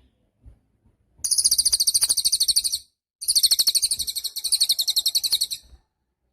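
A cililin songbird singing two long, rapid, high-pitched trills, the first about a second and a half long and the second about two and a half seconds.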